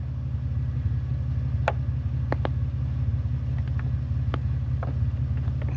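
A vehicle engine idling steadily with a low, even rumble, with a dozen or so small sharp clicks and taps scattered through it.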